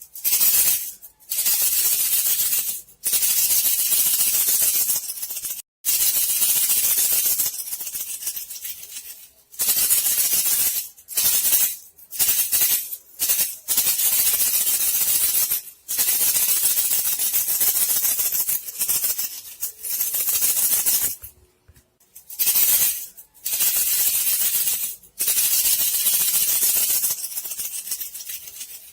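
Bandicoot-rat lure sound: a hissing, shaking rattle that comes in bursts from under a second to a few seconds long, with brief gaps between them.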